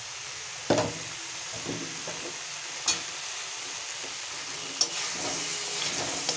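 Stingray and potato pieces sizzling in spiced oil in a kadai while a flat metal spatula stirs them. The spatula scrapes the pan and knocks against it sharply about four times, roughly every two seconds.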